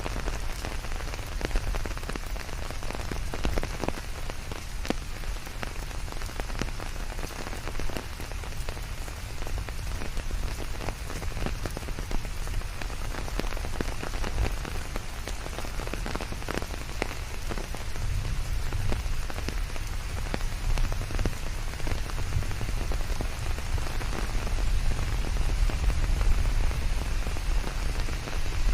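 Steady rain falling on a surface, a continuous hiss with the sharp ticks of single drops and a low rumble underneath.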